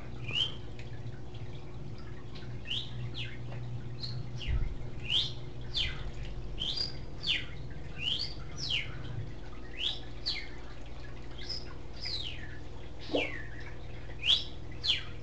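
English budgie (budgerigar) chirping: a long series of short, sharp rising and falling chirps, roughly one a second, over a steady low hum.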